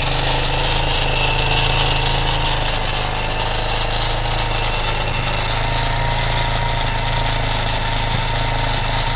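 A 230 engine idling steadily, with a light rattle from the top end that the owner puts down to the tappets.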